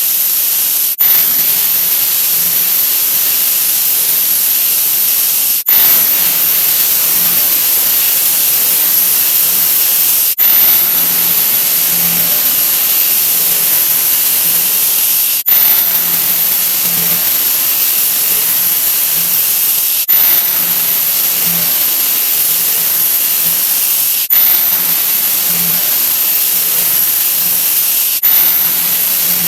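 A 'wah wah' sound effect sped up so far that it has become a steady, loud, high hiss with no tune left in it. The hiss breaks off for an instant about every four to five seconds and starts again slightly louder each time, as each faster repetition begins.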